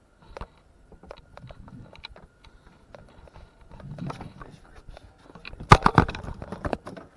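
Scattered clicks and knocks, with a cluster of loud sharp knocks and rattling about six seconds in.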